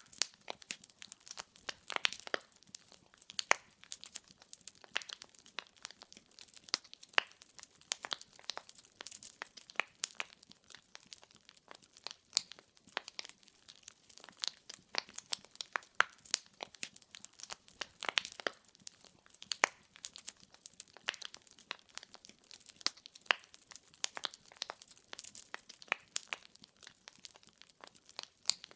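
Wood fire burning in a fireplace: logs crackling with dense, irregular sharp pops and snaps over a faint hiss.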